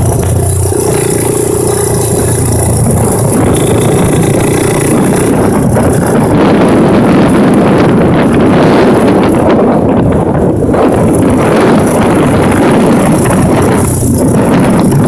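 1984 Honda ATC 200X's single-cylinder four-stroke engine running through a DG aftermarket exhaust while being ridden. A steady low hum changes to rougher, busier running about a second in.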